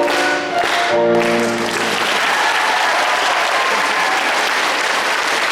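The song ends on its closing chords with held notes in the first second or two, and audience applause takes over and continues.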